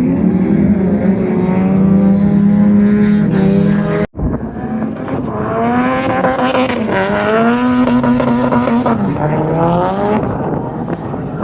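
Drift car engine running at high revs, its pitch held steady at first; after an abrupt cut about four seconds in, it rises and falls repeatedly with the throttle.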